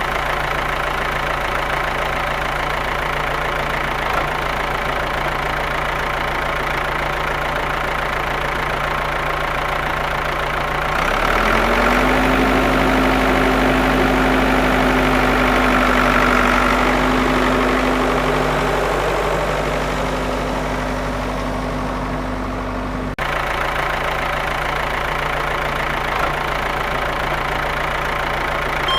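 A steady engine-like hum, like a motor idling. About eleven seconds in, a higher whine rises in pitch and holds alongside it, then stops abruptly about twelve seconds later.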